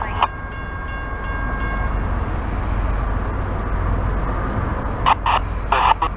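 Low rumble of an approaching train, building slightly, with the grade crossing's warning bell striking rapidly near the end.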